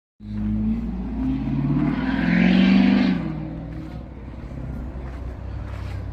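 A motor vehicle engine starting up loud just after a cut, swelling to its loudest about three seconds in and then easing to a steady lower running sound.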